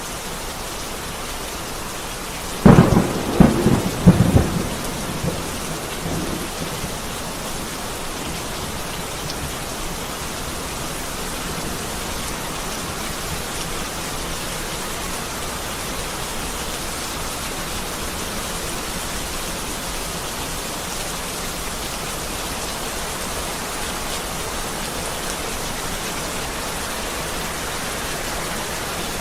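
Heavy rain falling steadily, with a close thunderclap a few seconds in: a quick series of loud cracks followed by a rumble that dies away, leaving the steady rain.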